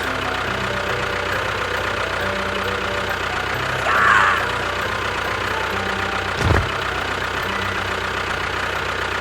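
A small vehicle engine running steadily, with a brief higher-pitched burst about four seconds in and a single thump a couple of seconds later.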